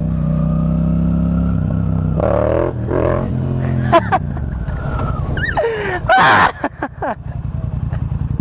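Yamaha FZ-07's 689 cc parallel-twin engine running through a Yoshimura exhaust under hard throttle, its pitch climbing for the first couple of seconds and then shifting as the throttle changes. A loud rush of noise comes about six seconds in.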